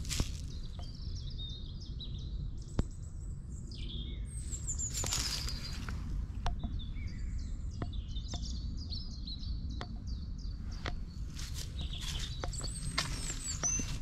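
Small songbirds chirping and trilling almost continuously, over a steady low rumble, with a few faint ticks.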